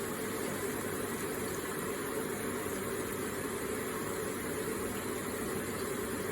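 Electric garden water feature running: an even, unbroken trickle and splash of falling water.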